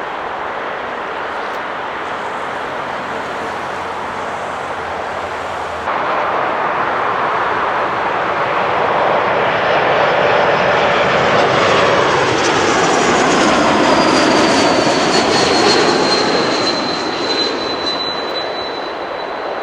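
Airbus A220-300's Pratt & Whitney PW1500G geared turbofans on a landing approach, swelling to a loud pass as it goes by. A high whine glides down in pitch, then the sound fades. Before a cut about six seconds in, a steady jet rush from another airliner.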